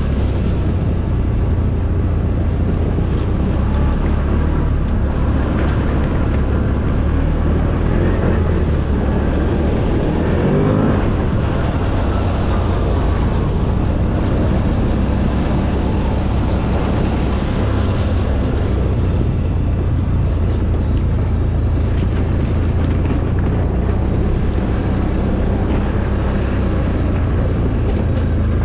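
ATV engine running steadily while riding, a loud continuous low drone, with a brief shift in engine pitch about ten seconds in.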